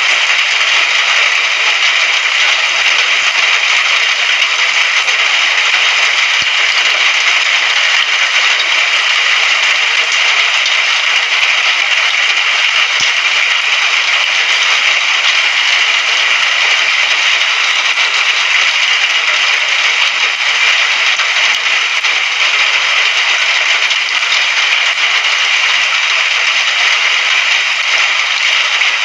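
Steady rain falling, a constant dense hiss with no breaks.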